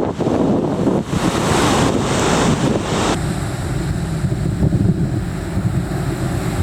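Wind buffeting the microphone over the rush of sea water along a ferry's hull. About halfway through, the hiss of the wind drops suddenly and a steady low hum comes through underneath.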